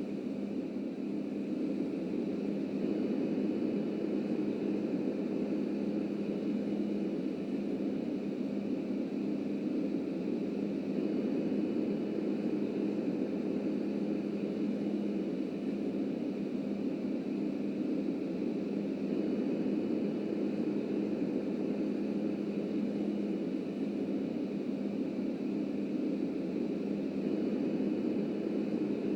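Subway train running along the track: a steady rumble with a constant low hum throughout.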